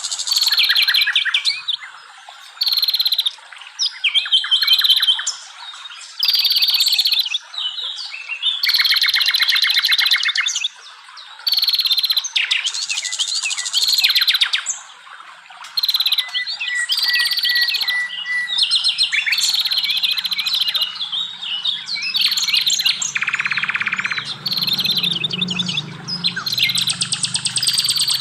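Songbirds singing in quick, varied phrases of chirps, trills and falling whistles, one after another with short pauses. A faint low hum joins in about two-thirds of the way through.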